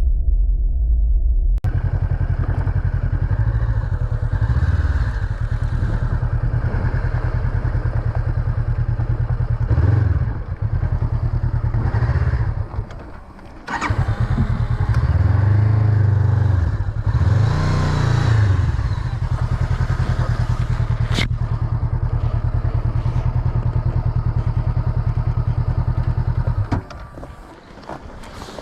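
Motorcycle engine being ridden, revs rising and falling several times through the gears, with a short lull about halfway and a sharp click later on; the engine sound drops away near the end. A brief bit of music comes before it at the very start.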